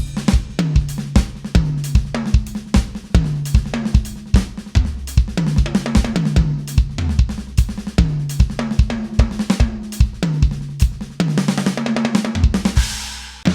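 KAT Percussion KT4 electronic drum kit played through one of its preset kits: a busy beat of kick, snare and hi-hat with pitched drum notes, building to a long cymbal wash near the end.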